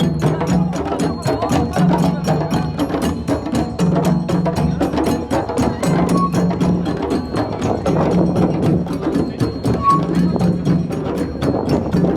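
West African-style percussion ensemble playing a fast, driving rhythm: many sharp hand-drum and bell-like strikes, with a low humming tone that returns for about a second every two seconds.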